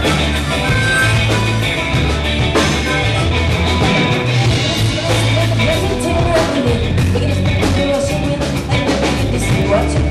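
Live rock band playing a song, with electric guitar, bass and drum kit, loud and steady.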